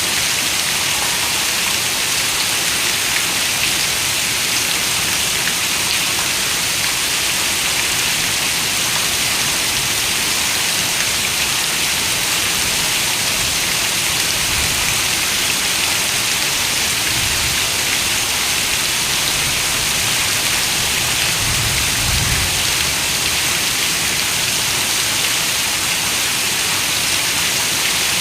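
Heavy rain falling steadily on a window, an even, dense hiss with no pauses. A few soft low rumbles come through in the second half.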